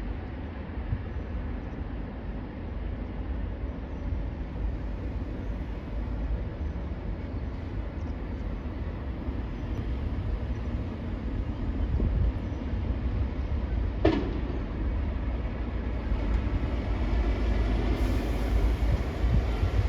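Steady low rumble of a heavy vehicle, growing slowly louder, with a brief falling squeal about two-thirds of the way through.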